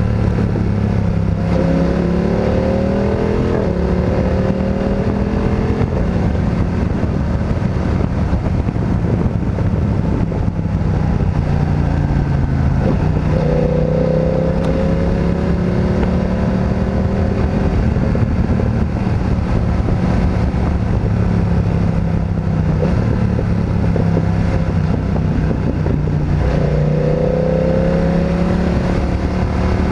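Motorcycle engine running under way, its pitch climbing three times as it accelerates: near the start, about halfway through, and near the end.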